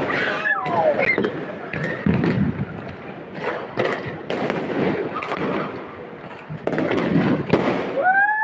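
Fireworks going off over a city: a string of sharp bangs and crackles at irregular intervals, with voices underneath.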